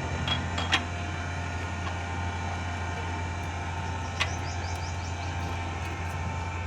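Steady low mechanical hum with a faint even whine over it, broken by a sharp metallic click just under a second in and another about four seconds in.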